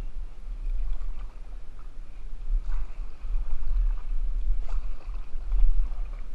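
Kayak paddling on a river: a steady low rumble of buffeting on the microphone, with faint splashes of paddle strokes in the water. The two clearest splashes come a little before halfway and about three-quarters through.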